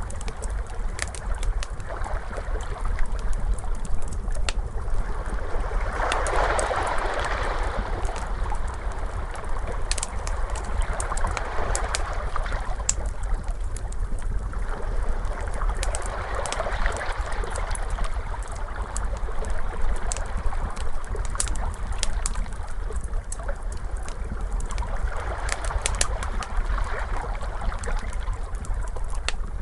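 Ocean waves washing in and drawing back every few seconds over a low rumble, with the sharp pops and crackles of a wood fire scattered throughout.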